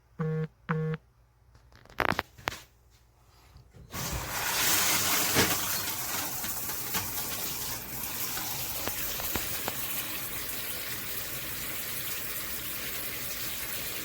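Two short electronic beeps, a couple of clicks, then about four seconds in a handheld shower head starts spraying water in a steady hiss. It keeps running, its on/off pause switch failing to shut the flow.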